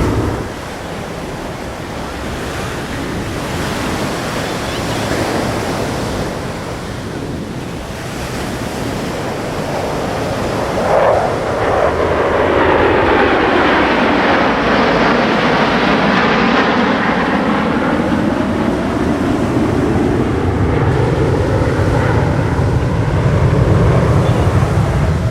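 Jet engine noise from Thunderbirds F-16 fighter jets passing overhead, a broad rushing sound that swells about halfway through and stays loud, with wind on the microphone.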